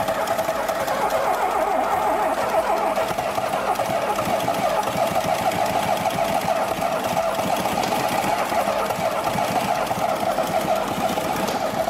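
Classic Lada four-cylinder engine, rebuilt with welded connecting rods, running steadily with a rapid clicking noise.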